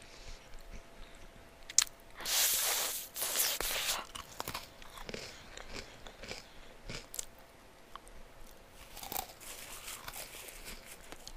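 Close-miked mouth sounds of someone chewing a Double Stuf Oreo cookie, with wet smacks and small clicks, and a loud slurp of saliva about two seconds in that lasts a second or two.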